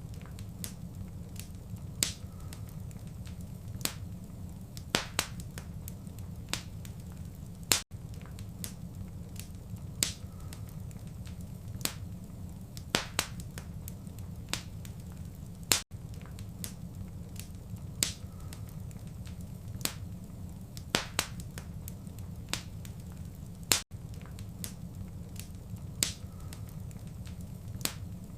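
Wood fire crackling in a fireplace: sharp, irregular pops about once a second over a steady low rumble. The sound cuts out for an instant three times, about eight seconds apart.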